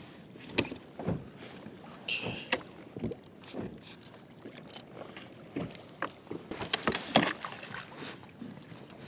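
Handling noises on a fishing kayak: irregular knocks, clicks and rattles over a low background hiss.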